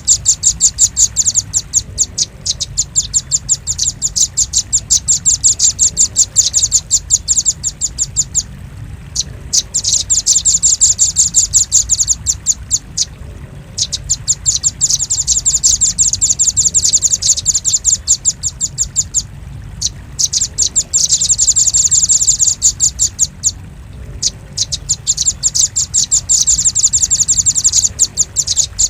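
Velvet-fronted nuthatch calling: long runs of rapid, sharp, high chips lasting several seconds each, broken by short pauses, over a steady low hum.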